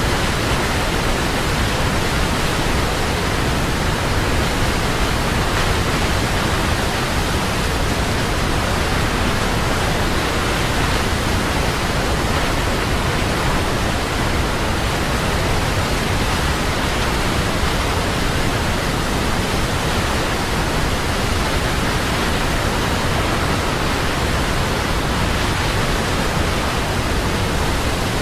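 Large waterfall: water falling and crashing in a steady, dense roar of noise with no change or break.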